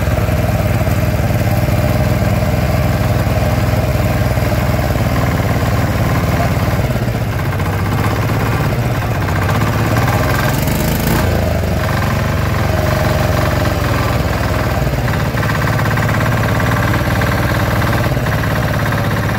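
Maestro 10 HP single-cylinder diesel engine running steadily, its note shifting briefly around the middle as the throttle is worked.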